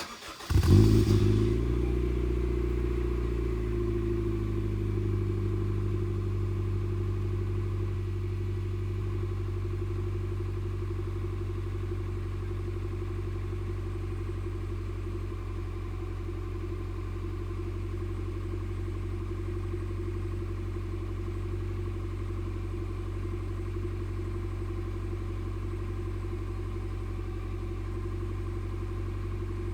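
Honda Fit RS (GE8) 1.5-litre four-cylinder engine breathing through an Apexi N1 evolution aftermarket muffler, started about half a second in with a brief flare in level. The idle settles slightly lower within the next few seconds and then holds a steady, low exhaust note.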